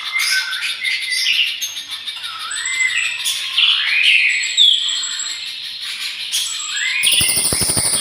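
Songbird singing a varied run of short rising and falling whistles and chirps, as in a birdsong mastering recording used to tutor cage birds. About seven seconds in, it switches abruptly to a busier, buzzy trill with rapid clicks.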